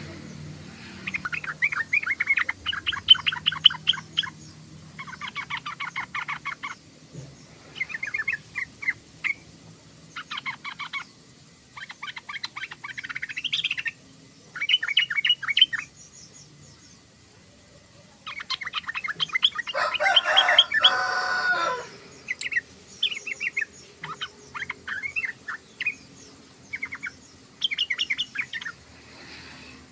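Yellow-vented bulbul (trucukan) chattering in a string of short bursts of rapid twittering notes, with a louder, denser stretch about two-thirds of the way through.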